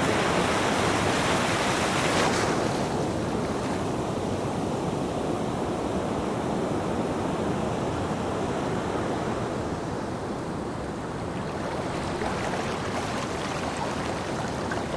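Ocean surf breaking on a beach: a loud wash of a wave that falls away about two seconds in, a quieter lull, then the next wave building near the end.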